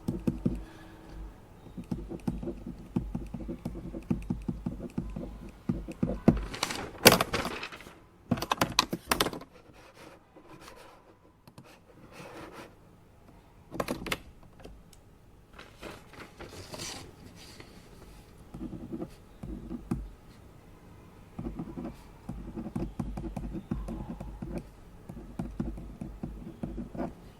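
Typing on a computer keyboard in two long runs of quick clicks, at the start and again in the last third. Between them come several louder rustles, most between about six and nine seconds in, which fit paper being handled, plus a few single taps. A faint steady air purifier hum runs underneath.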